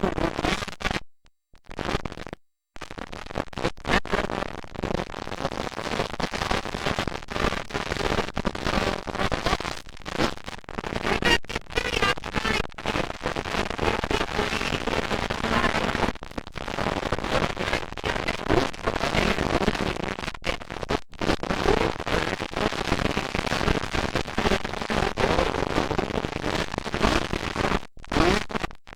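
Dirt bike engines running and revving with a dense crackle, cutting out briefly twice near the start.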